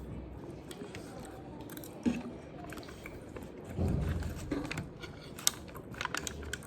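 A person chewing and biting food close to the microphone, with scattered small clicks.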